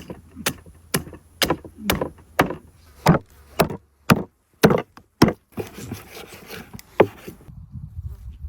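Chopping: a blade striking into wood about twice a second, a dozen sharp blows with a short pause before a last one about seven seconds in.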